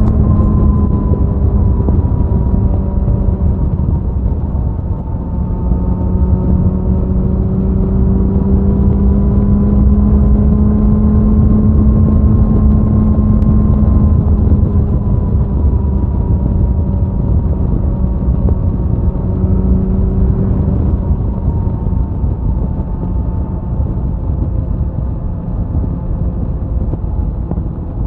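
Suzuki Hayabusa's inline-four engine and exhaust at a steady high-speed cruise, its note rising and falling only a little, over heavy rushing wind noise.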